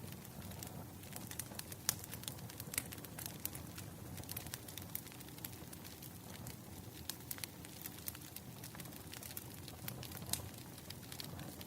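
Wood fire crackling: many irregular sharp pops and snaps over a low, steady rumble.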